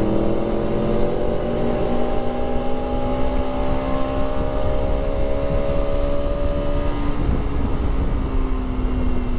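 Motorcycle engine running under way, its pitch climbing slowly for about seven seconds and then holding steady, over a low noisy rumble.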